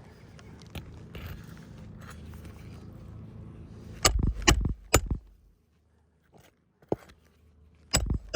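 Hammer driving nails into asphalt roof shingles: three quick blows about half a second apart some four seconds in, then two more near the end.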